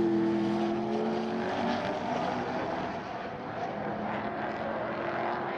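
V8 muscle-car race engine running, with a steady engine tone that fades out about a second and a half in, leaving a rougher mechanical rumble.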